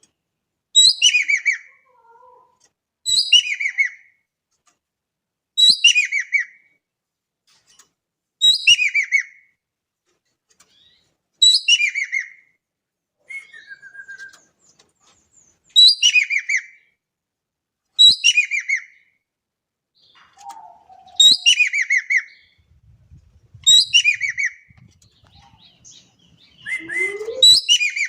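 An ekek keling songbird calling over and over, about every two and a half seconds: each phrase is a quick run of high notes tumbling down in pitch, with a few fainter, lower single notes between phrases.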